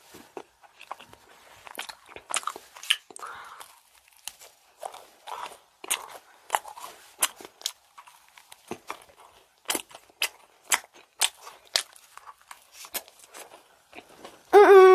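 A strawberry-and-cream macaron being broken and eaten up close: a run of irregular crisp crunches and small wet mouth clicks as the shell is bitten and chewed. Near the end a steady hummed note starts.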